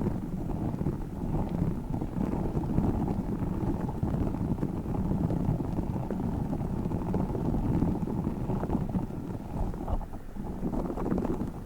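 Tiny spiky orbeez balls being squished and rolled in the hands close to the microphone, a continuous dense squishing and rustling with a low, muffled sound.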